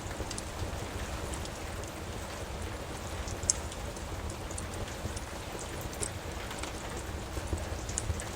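Steady rain with a low rumble beneath, and scattered sharp crackles and pops from a wood fire, one louder pop about three and a half seconds in.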